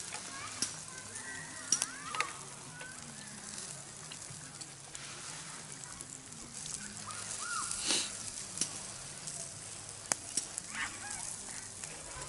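Food sizzling in a pan on a camp stove, with a few sharp clicks and scrapes of utensils against the pan. Short bird chirps come through in the background a few times.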